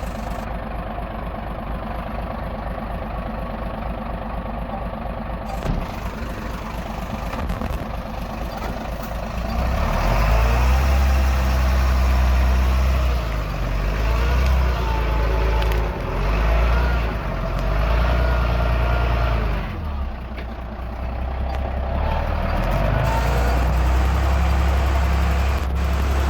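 Heavy diesel engine of earthmoving machinery running steadily at low revs, then growing louder and deeper from about ten seconds in as it works under load, easing briefly near twenty seconds before pulling hard again.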